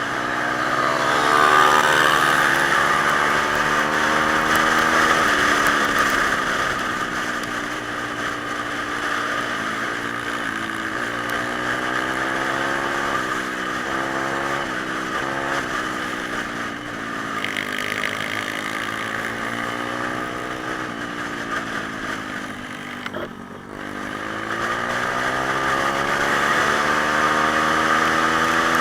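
Pit bike's small single-cylinder four-stroke engine being ridden, revving up and falling back again and again as the rider works the throttle and gears. About three-quarters of the way through, the engine note drops briefly and sharply, then climbs again.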